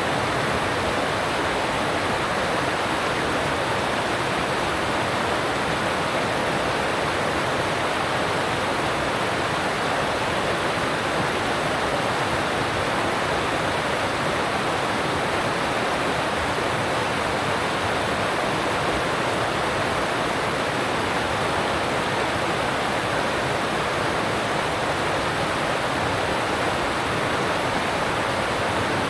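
Alpine mountain stream rushing over rocks: a steady, unbroken rush of water.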